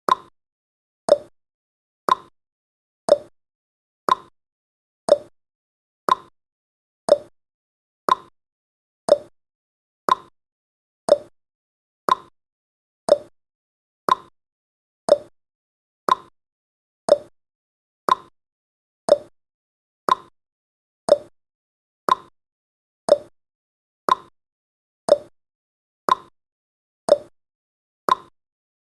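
Countdown timer's clock-tick sound effect: a short, sharp tick once a second, evenly spaced.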